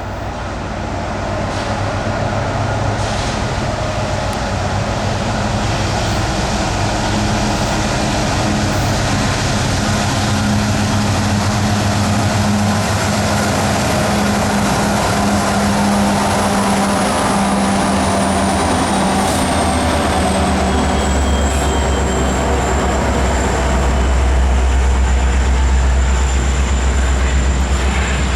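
Train with diesel locomotives running as it approaches, steadily growing louder. A high whine falls in pitch about two-thirds of the way through, and a deeper engine tone grows strong near the end.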